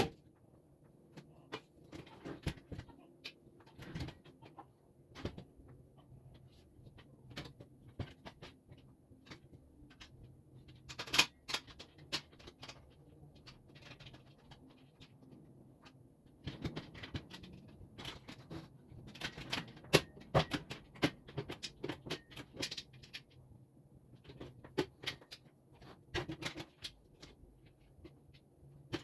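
Irregular clicks, taps and light knocks of parts and hardware being handled during assembly of a small work table, busiest about eleven seconds in and again over the second half, over a faint steady low hum.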